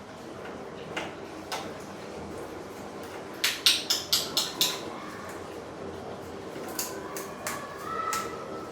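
A quick run of about six sharp clicks or raps lasting about a second, a little past the middle, over a steady background hum, with a few fainter clicks near the end.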